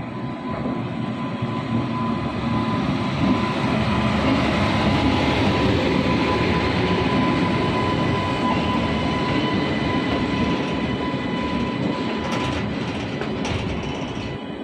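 Freight train of covered BOXN wagons rolling past: a steady, loud rumble and rattle of wheels on the rails, with a thin steady whine through it. A few clanks come near the end.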